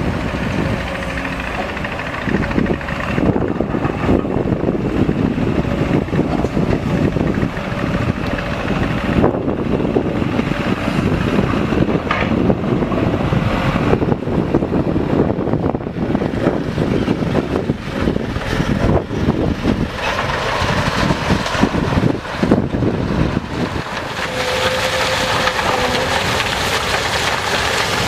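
Heavy diesel machinery running steadily under load, with wind buffeting the microphone.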